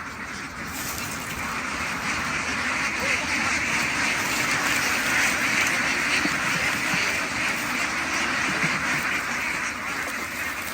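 A large flock of farm ducks quacking all together in a dense, continuous chatter, growing louder over the first few seconds and then holding.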